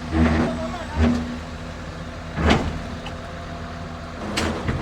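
Diesel engines of heavy earthmoving machinery running steadily during a recovery pull, broken by four loud, sudden bursts of noise spread through the clip.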